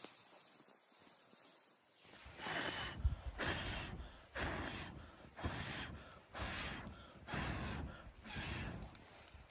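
Footsteps crunching through snow, about one step a second, starting about two seconds in after a faint hiss.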